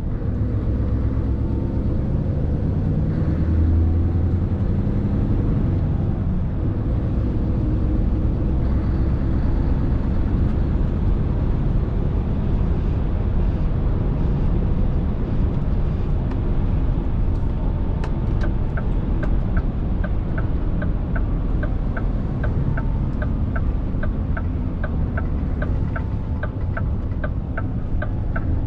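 Scania R650's 650 hp V8 diesel running with a steady low rumble. From a little past halfway, a regular ticking of about two clicks a second sounds over the engine.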